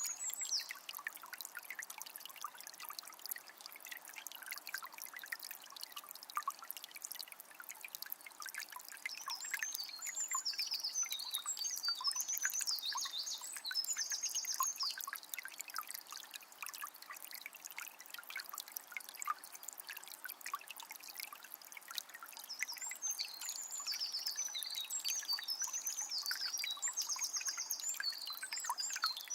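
Small spring trickling and splashing steadily. A songbird sings high, twittering phrases over it twice, about a third of the way in and again near the end.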